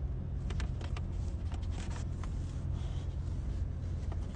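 Steady low rumble inside a car cabin, with scattered light clicks and rustles.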